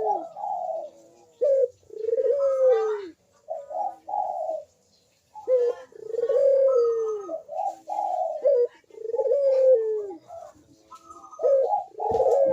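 Puter (Barbary dove) cooing over and over in repeated phrases, each ending in a falling note, with a short pause midway; the continuous calling used as a lure to get other puter doves to call.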